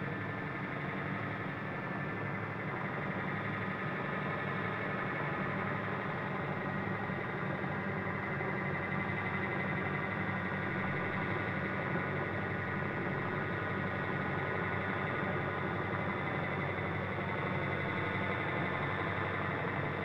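Small electric RC helicopter running steadily, a whine of motor and rotor with many steady tones, getting slightly louder over the stretch.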